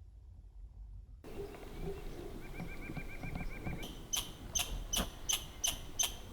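A small squirrel calling, a run of sharp high chirps about three a second that starts about four seconds in, with a brief fast high trill just before.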